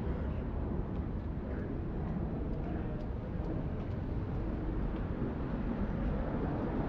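Rainy downtown street ambience: a steady low rumble of city traffic with a few faint scattered ticks.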